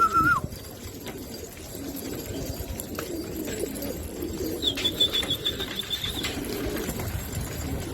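Domestic pigeons cooing: low, rolling coos repeated throughout. About five seconds in, a thin, high, wavering tone sounds for about a second and a half.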